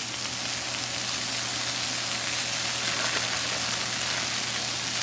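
Shredded hash browns, bacon and sausage patties frying in bacon and sausage grease on a hot Blackstone flat-top griddle: a steady sizzle.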